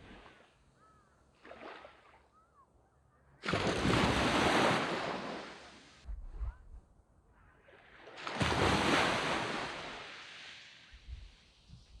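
Waves breaking on a sand beach: one crashes in suddenly about three and a half seconds in and another about eight seconds in, each washing up the sand and fading away, with quiet lulls between.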